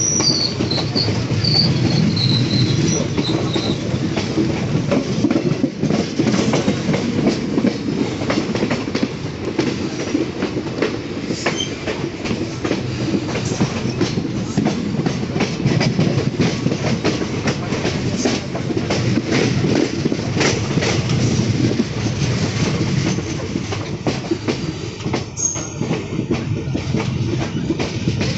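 Indian Railways train rolling into the station, a steady rumble of coaches with wheels clacking over rail joints. Thin high wheel squeal in the first few seconds.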